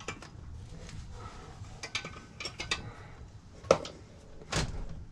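Scattered metal clinks and knocks of hand tools and small metal parts being picked up and set down on a workbench, with a louder knock near the end.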